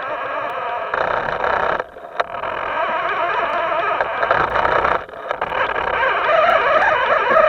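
Electric motor of a Himoto radio-controlled boat running with a whine that wavers in pitch, dropping out briefly about two seconds in and again about five seconds in.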